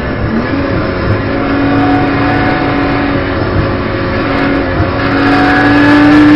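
BMW M240i Racing Cup's turbocharged straight-six heard from the cockpit under acceleration. The engine pitch steps up quickly just after the start, then climbs slowly and steadily, growing louder near the end as the revs build in one gear.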